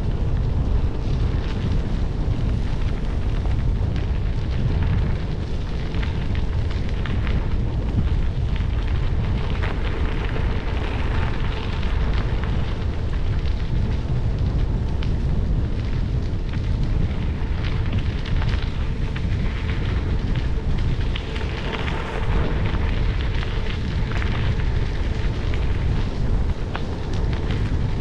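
Gravel bike tyres rolling over a gravel trail, a continuous crunching crackle, under heavy wind rumble on the helmet-mounted action-camera microphone.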